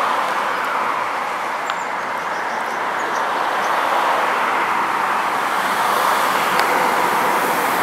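Steady noise of an approaching intermodal freight train on the rails, growing louder in the second half. A few short bird chirps sound about two to three seconds in.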